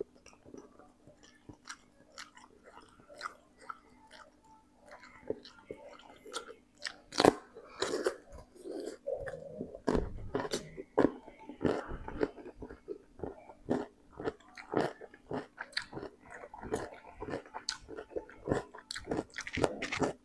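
Close-miked chewing of a mouthful of spicy instant noodles, with irregular wet mouth clicks and smacks.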